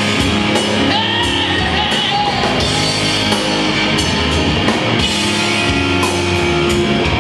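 Live rock band playing a passage between vocal lines: electric guitar, bass and drum kit, with cymbals struck every half second or so.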